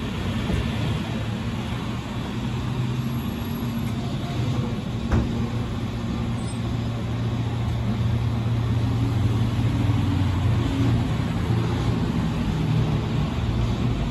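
Hyundai Elantra engine idling with a steady low hum that wavers slightly in pitch and grows a little louder about halfway through; a single click about five seconds in.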